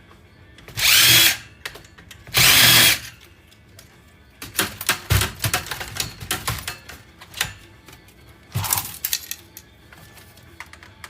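Power drill-driver whirring in short bursts, backing out screws from an electronics casing: two bursts about a second apart, then a run of sharp clicks and rattles of small metal parts, and a third shorter burst near the end.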